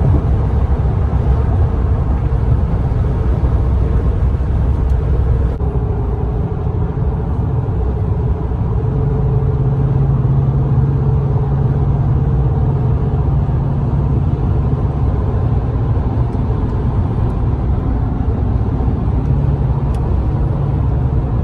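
Heavy diesel vehicle running with a steady, loud low rumble, with a steady hum coming up about nine seconds in.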